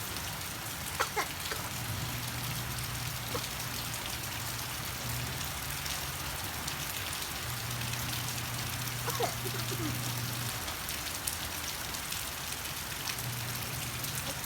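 Steady rain falling, with scattered drops ticking on nearby surfaces. A low hum comes and goes underneath, and there are two brief chirps, about a second in and about nine seconds in.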